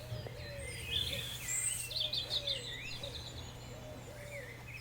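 Several birds chirping and calling: quick high chirps and whistles overlapping with repeated short, lower arched calls, over a faint steady low hum.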